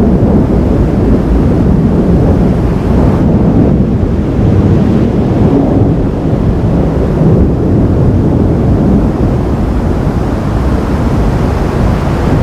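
Wind buffeting the camera microphone during a thunderstorm: a loud, steady low rumble.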